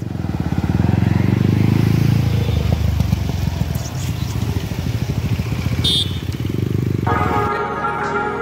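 Motorcycle engine running close by, with a fast, even firing pulse. Background music comes in near the end.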